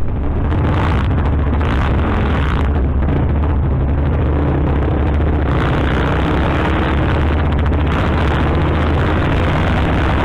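A 50cc mini bike engine running at a steady speed under way, with a steady low rumble and hiss that starts suddenly.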